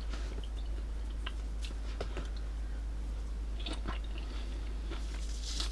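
A person chewing segments of a juicy mandarin-type citrus fruit: soft wet mouth sounds and small irregular clicks, over a steady low hum.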